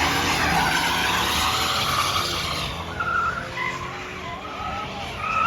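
Car tires spinning and squealing in a burnout or hard launch. The loud spinning noise lasts about two and a half seconds, then breaks into shorter, wavering squeals.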